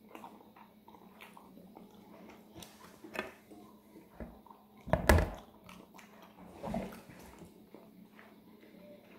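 Close-up eating sounds: chewing with small clicks of a fork picking at pizza in a metal baking tray, and a louder thump about five seconds in.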